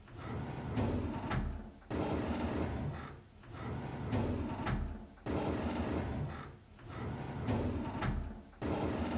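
A drawer sliding on its runners, over and over, about five times, each slide about a second and a half of rattly scraping with small clicks.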